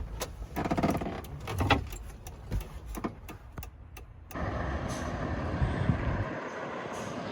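A run of clicks, rattles and handling noise as the truck's ignition key is turned off and pulled out and the cab light switches are flipped. About four seconds in, these give way abruptly to a steady outdoor rush.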